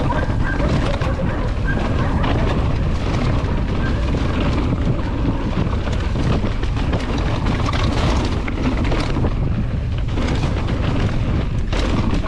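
Wind rumbling on the action camera's microphone as a mountain bike rolls down a wooded trail, with scattered knocks and rattles from the bike over the rough ground.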